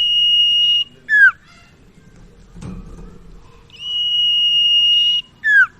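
Sirtu (cipaw) bird singing: a long, steady high whistle followed by a short note that drops in pitch, given twice.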